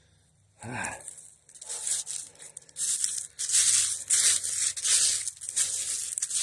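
A short bump under a second in, then repeated bursts of rustling, crinkling noise about every half second.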